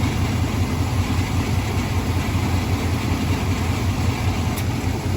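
Two-door Chevy Tahoe engine idling steadily, with the A/C on.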